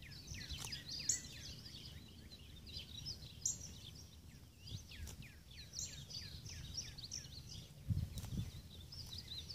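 Birds chirping in the background, many quick downward-sliding calls, over a steady low outdoor rumble. A few sharp clicks and a low thump about eight seconds in.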